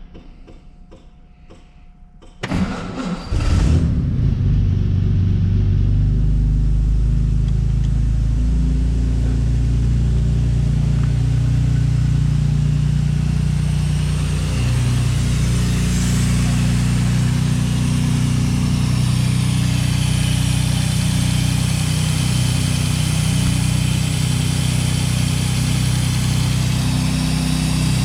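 Jaguar XK-140's 3.4-litre twin-cam straight-six catching on a cold start about two and a half seconds in, then running steadily. A rising hiss comes in partway through from the automatic starter carburettor, working as it should in its cold position.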